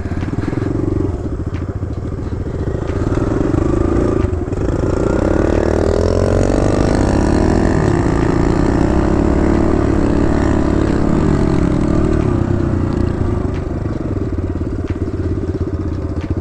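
Kawasaki KLX110 dirt bike's small single-cylinder four-stroke engine running under throttle. Its pitch climbs as the bike speeds up, about four seconds in, and drops again as it slows, a few seconds before the end.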